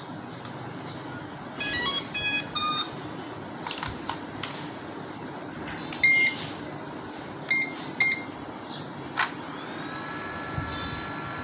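A series of electronic beeps: a quick run of three tones at different pitches, then several short single beeps, and near the end a longer held tone over a steady background hiss.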